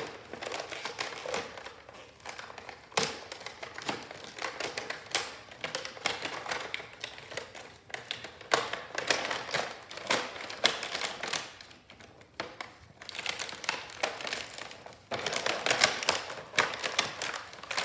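A cardboard toy box being opened and its packaging handled: irregular taps, clicks and rustling, louder in a few stretches.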